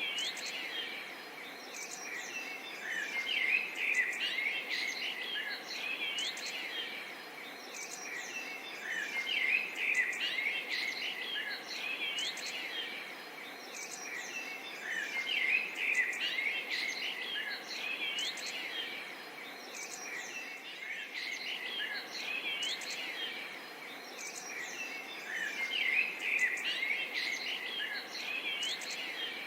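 Dense chorus of many birds chirping and twittering over a steady background hiss of insects, the chorus swelling and easing about every six seconds.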